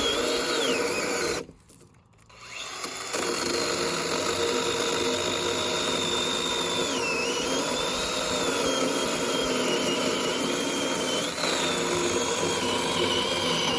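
Makita DUC302 twin-battery electric chainsaw running and cutting Sydney blue gum: a steady high motor whine that dips in pitch as the chain bites into the wood. It stops briefly about a second and a half in, then runs again.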